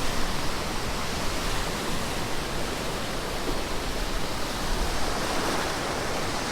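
Ocean surf washing on the beach: a steady, even rush of noise.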